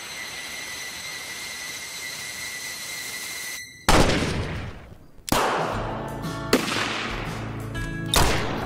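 A steady hiss, then three loud gunshots, each with a ringing decay: the first about four seconds in, the next a second and a half later, the last near the end. Music starts up between them.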